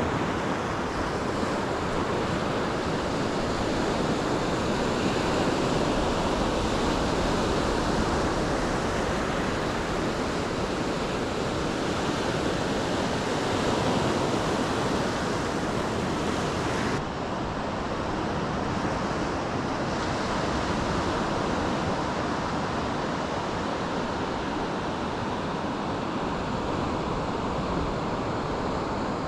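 Surf washing onto a beach, a steady rushing noise of waves with wind. About seventeen seconds in, the hiss in the sound abruptly drops away.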